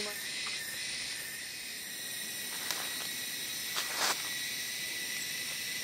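Steady, high-pitched chorus of forest insects, with a few faint clicks around the middle.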